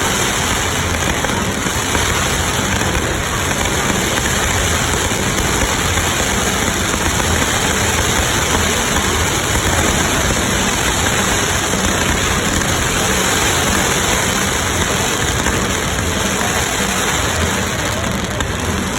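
Fireworks display: a loud, steady wash of noise from many bursts running together.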